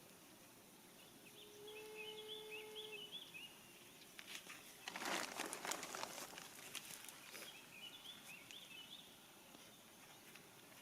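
Faint birdsong, with short chirping phrases near the start and again near the end. Around the middle comes a brief, louder rustle and patter of compost soil being spread over freshly sown seeds.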